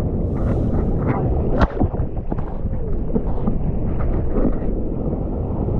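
Heavy surf churning and breaking right on the microphone, a loud, dense rumble with one sharp hit about a second and a half in.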